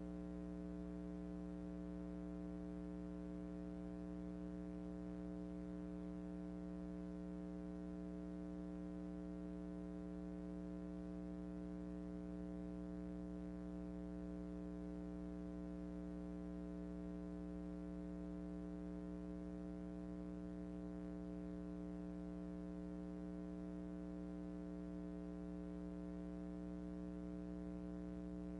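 A steady electrical hum with many overtones, holding one unchanging pitch throughout.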